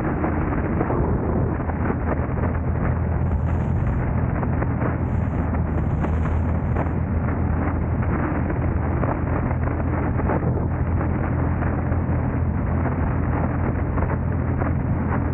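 A car driving: a steady low rumble of road and engine noise, with wind buffeting the microphone.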